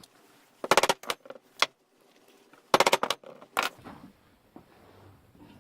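A hammer tapping a centre punch into the ends of a wooden blank, marking the centre points for mounting it on a lathe. Two bursts of quick, sharp taps about two seconds apart, one for each end.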